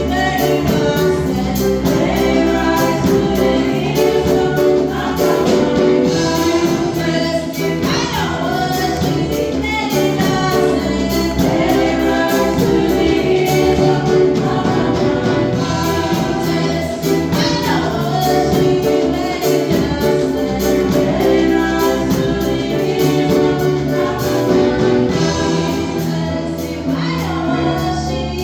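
Gospel worship music: a choir singing over steady instrumental backing.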